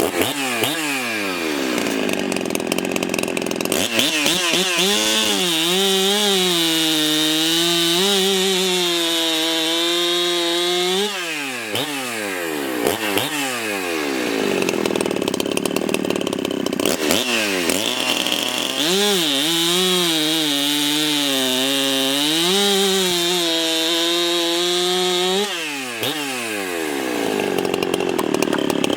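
Ported Husqvarna 372XP two-stroke chainsaw with a big-bore kit, held at high revs twice for about seven seconds each, its pitch wavering slightly, and dropping back to lower revs between and after. The fresh big-bore top end is still seating its rings.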